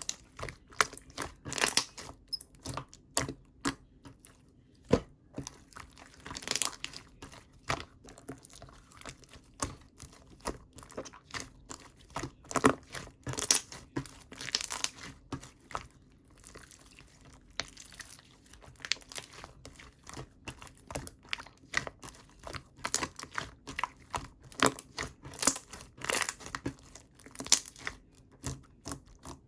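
Thick, chewy slime being squished, folded and stretched by hand, making irregular sticky pops and crackles several times a second.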